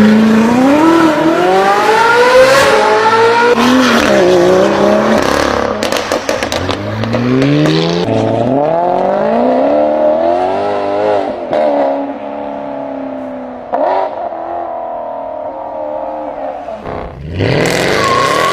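High-performance car engine revving hard and accelerating through the gears; its pitch climbs and drops back at each shift, and there is a spell of exhaust crackles about six seconds in.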